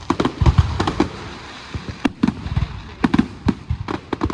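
Fireworks display going off: a rapid, irregular series of sharp bangs and cracks, several in close clusters.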